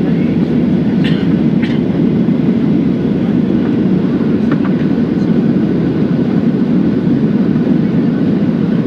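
Steady airliner cabin noise in flight: engine and airflow noise at a constant level, low and even.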